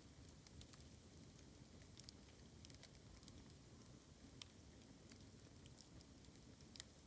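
Bamboo burning in a campfire, crackling faintly with scattered small pops and snaps over a low rumble.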